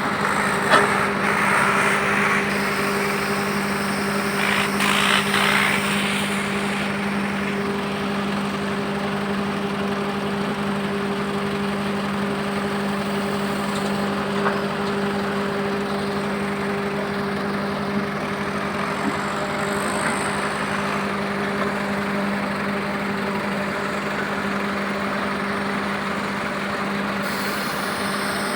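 Heavy vehicle engine running steadily at an even speed, with a single sharp knock about a second in.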